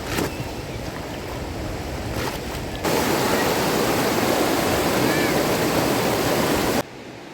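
Rushing river water, a steady, even roar that jumps sharply louder about three seconds in and cuts back down sharply near the end.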